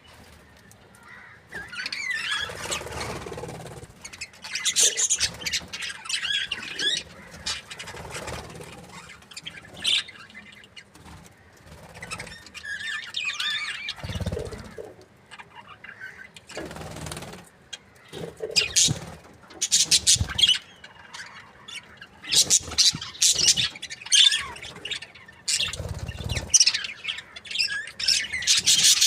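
Budgies chirping and squawking in irregular bursts, busier and more continuous in the second half. A couple of short, dull low thumps come in among the calls.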